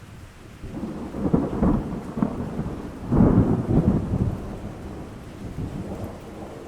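Thunder rolling over steady rain. The thunder builds about a second in, is loudest a little after three seconds, then fades to a low rumble under the rain.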